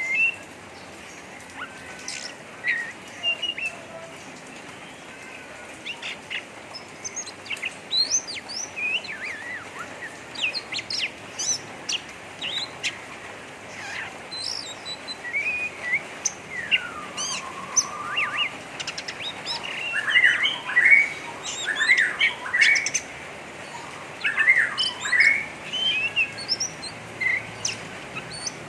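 Oriental magpie-robin singing a harsh, chattering 'ngeriwik' song: a fast jumble of short chirps, sweeping whistles and scratchy notes that grows denser about halfway through, over a steady hiss.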